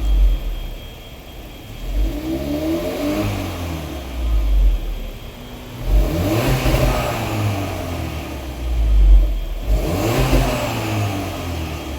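Volkswagen Golf Mk7 1.4 TSI turbocharged four-cylinder engine revved in a series of short blips through a Thunder SC-type medium-volume aftermarket rear muffler with quad stainless tips. Each rev rises and falls back toward idle, about five or six times.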